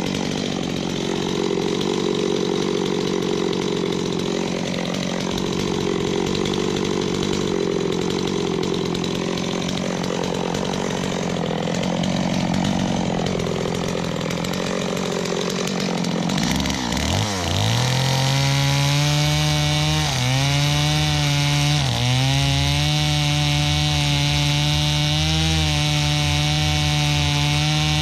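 Chainsaw running while cutting into a tree, its engine pitch wavering under load. About two-thirds of the way through, the pitch drops briefly and then gives way to a clearer, steadier engine note with two short dips.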